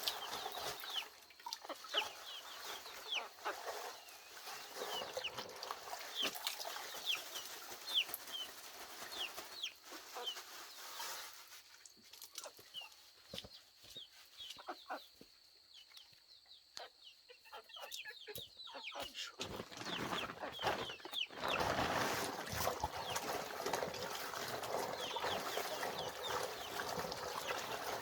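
Chickens clucking and calling, with many short high calls. The calls quieten about halfway through, then the sound picks up again with a denser, noisier stretch near the end.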